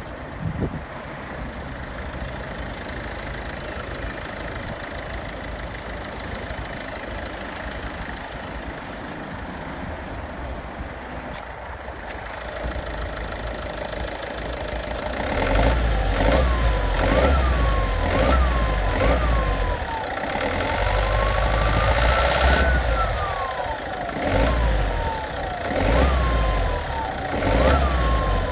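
Hyundai i30 1.6 CRDi turbodiesel four-cylinder idling steadily, then revved repeatedly from about halfway in, each rev bringing a siren-like turbo howl that rises and falls with engine speed. The howl persisted after the turbo was swapped for a used one and goes away when the vacuum line to the variable-geometry turbo actuator is disconnected.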